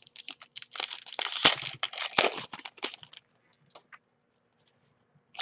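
Trading card pack wrapper being torn open and crinkled by hand, a dense rustle for about three seconds, then a single sharp click near the end.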